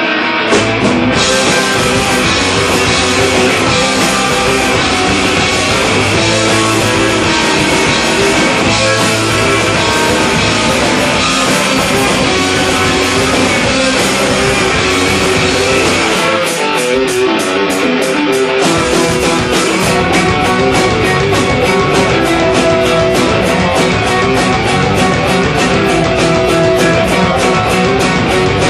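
Rock band playing live, with electric guitars and drums. About two-thirds of the way through, the bass and kick drop out for a couple of seconds, then the full band comes back in over a steady, driving beat.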